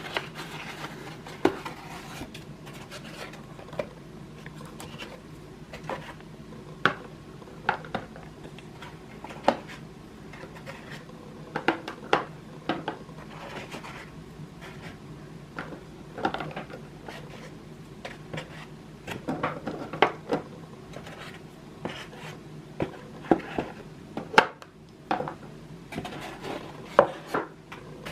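Kitchen storage containers and jars being handled and set down: irregular light knocks, clicks and rubbing, in clusters, over a faint steady hum.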